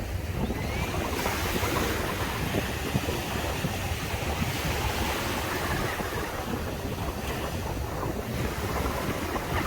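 Sea waves breaking and washing up a sandy beach, a continuous surging hiss that swells about a second in and eases about seven seconds in. Wind buffets the microphone underneath as a steady low rumble.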